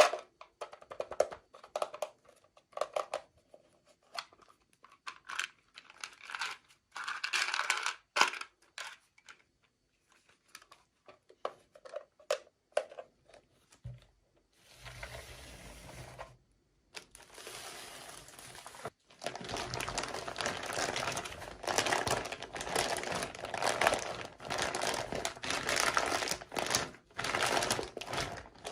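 Plastic packaging being handled and unwrapped: scattered clicks and short rustles at first, then steady continuous crinkling through the second half.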